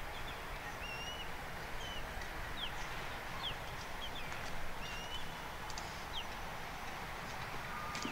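Small birds chirping now and then: short, quick chirps, some rising and some falling, scattered over a steady outdoor background hiss.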